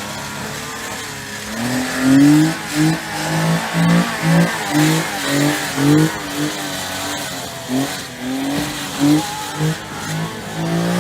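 Mini truck's small three-cylinder engine revved in a rapid series of short bursts, the note rising and dropping again and again, as the driver tries to spin the rear wheels in low range.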